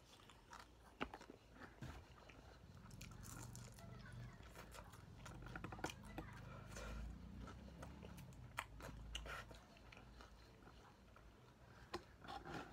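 Someone chewing crispy fried chicken close to the microphone, with quiet crunches and wet mouth sounds. Kyochon Honey Combo pieces.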